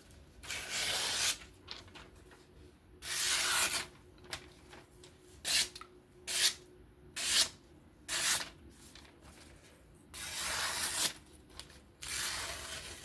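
A folding knife's blade drawn in a series of rubbing strokes, about eight in all: a few longer strokes near the start and end, and quicker short ones in the middle.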